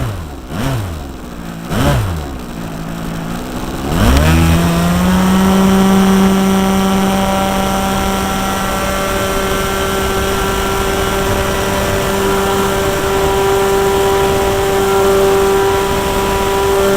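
Single-cylinder O.S. .46 AX two-stroke glow engine on an RC model plane, turning an 11x7 propeller. For the first few seconds it is blipped up and down several times. About four seconds in it opens up to a steady, high-pitched full-throttle run that holds.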